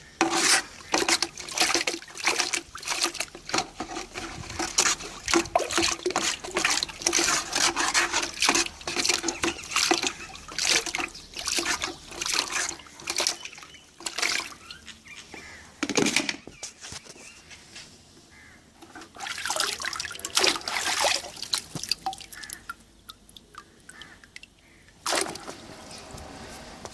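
Water splashing and pouring in irregular bursts as a plant's uprooted roots are rinsed by hand to wash off ants, thinning to quieter stretches in the second half with one more splash near the end.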